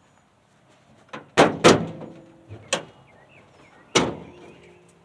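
A series of about five sharp metal clunks and bangs from an old pickup truck's body being opened up. The loudest come about a second and a half in and at four seconds, and some leave a short metallic ring.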